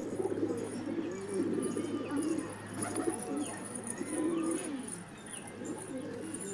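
Domestic pigeons cooing, with low wavering coos repeating one after another, and faint high chirps from other birds over them.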